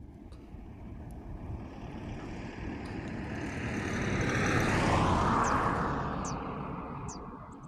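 A vehicle passing by, its noise swelling steadily to a peak about five seconds in and then fading away. Short high chirps sound near the end.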